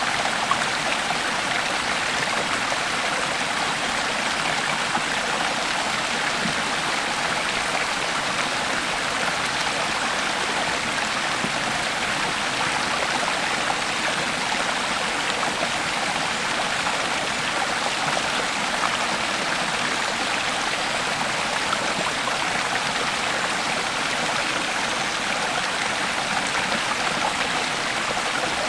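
Creek water flowing steadily over stones, an even rushing babble with fine splashes and no change in pace.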